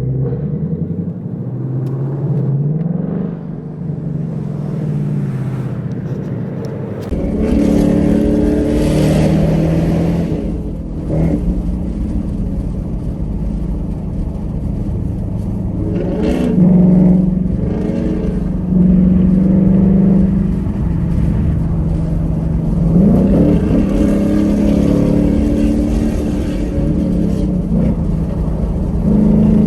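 Ford Mustang GTs' 5.0 L Coyote V8 engines with loud exhausts, cruising past and revving, the pitch rising and falling again and again. A deeper, heavier rumble joins about seven seconds in.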